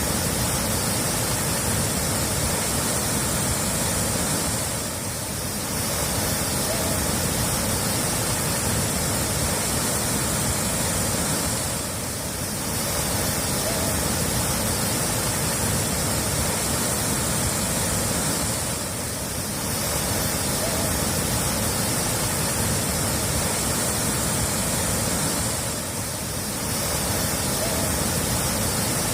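Steady rushing water, a dense even hiss that dips briefly about every seven seconds, as a looped recording does.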